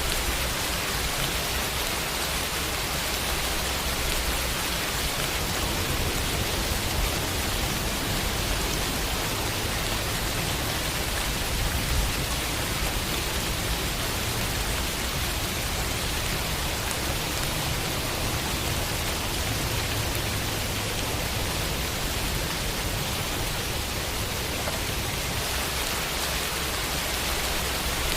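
Steady rainfall on a window: an even hiss of rain with a low rumble underneath, no single drops or thunder standing out.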